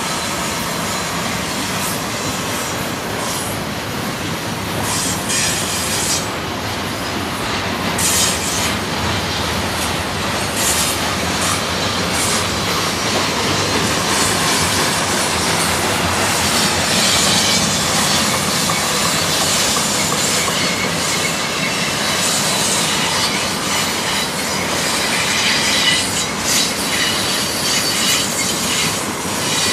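BNSF double-stack intermodal freight train's container cars rolling past, a steady rumble of steel wheels on rail, with high wheel squeal coming and going.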